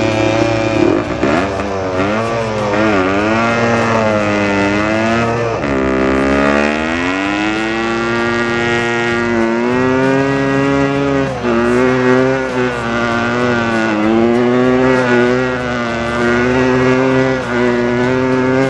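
Dirt bike engine running hard, its pitch rising and falling with the throttle, with a deep dip about six seconds in before it climbs again.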